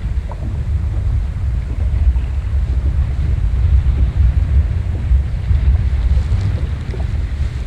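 Strong wind buffeting the microphone, a heavy gusting low rumble, with faint small splashes of water against a small boat's hull.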